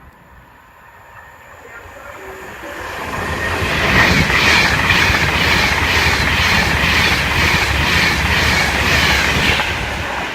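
A train passing through the station at speed without stopping, growing loud over the first few seconds, with a steady rapid clickety-clack of wheels over the rails, about two or three clacks a second, easing off near the end.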